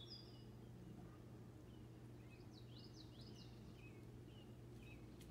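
Faint high chirps of birds outside, a quick run of them around the middle, over a low steady hum. One sharp click sounds near the end.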